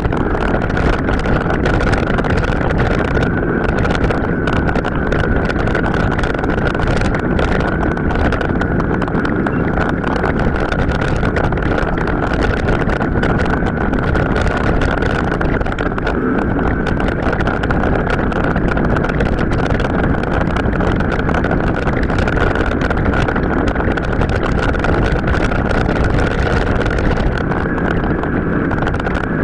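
Continuous wind buffeting and rough rumble from a mountain bike riding off-road, fast-forwarded to several times normal speed, with a steady high whine running through it.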